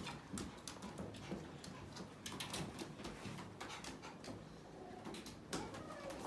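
Irregular light clicks and taps in quick succession, from cats moving about.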